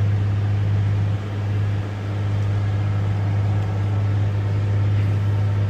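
Old loader's diesel engine running steadily, heard from inside its cab as a constant deep hum.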